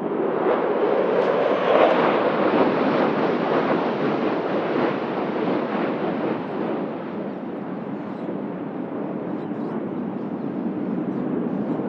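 Fighter jets flying overhead: a loud jet roar that peaks about two seconds in, then slowly fades and builds again toward the end.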